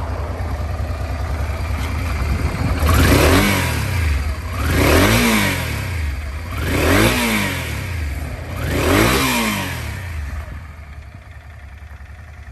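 Honda Transalp 400V's water-cooled four-stroke twin idling, then revved four times about two seconds apart, each blip rising and falling back to idle. The engine is described as running well.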